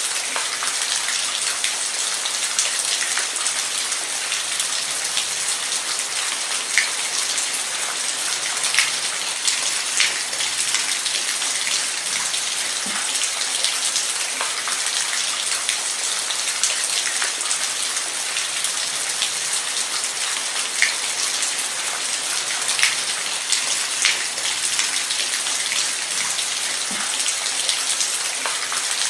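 Steady rain falling, an even hiss with individual drops ticking sharply here and there on a nearby surface.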